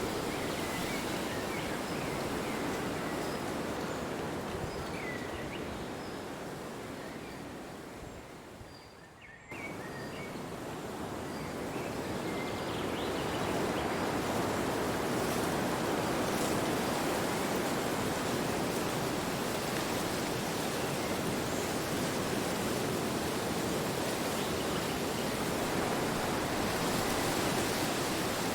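Wind blowing, a steady rushing noise that dies away about a third of the way in, then cuts back in suddenly and swells up again. Faint short high chirps sound over the first third.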